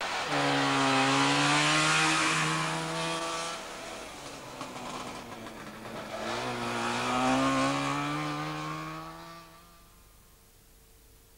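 Trabant's two-cylinder two-stroke engine revving hard as the car accelerates. It runs high for about three seconds, drops back briefly, climbs again, then fades away near the end.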